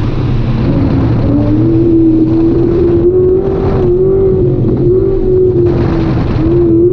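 Ford Mustang autocross car's engine heard from inside the cabin during a run, its pitch rising and falling as the throttle is worked between cones. Two short bursts of hiss come a little after halfway and near the end.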